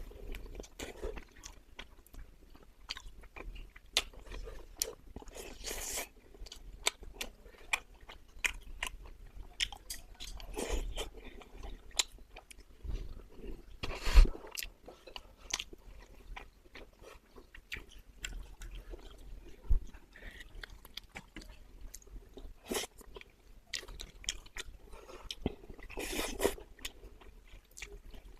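A person chewing and biting food close to the microphone while eating braised yellow croaker: wet mouth sounds with many small clicks, and a single sharp knock about 14 seconds in.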